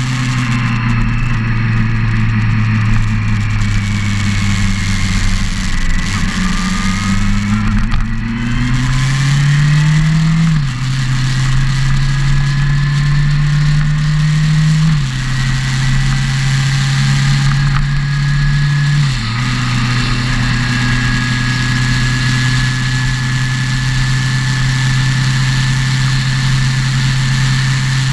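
Motorcycle engine running under way and accelerating through the gears: its pitch climbs and drops back at three upshifts in the middle stretch, then holds steady. Wind rush runs underneath.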